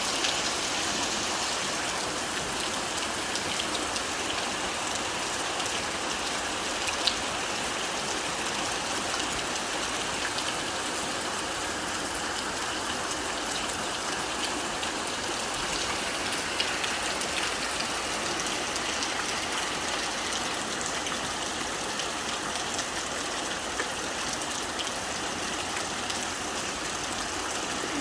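Steady rain drumming on a corrugated tin roof: a dense, even hiss with scattered louder drop ticks.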